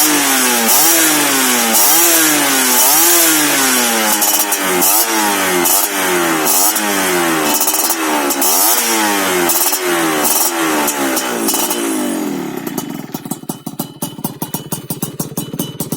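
Yamaha F1ZR two-stroke engine breathing through a BM Power stainless under-belly expansion-chamber exhaust, revved in repeated throttle blips that rise and fall about once a second. About twelve seconds in it drops back to idle with a steady popping beat.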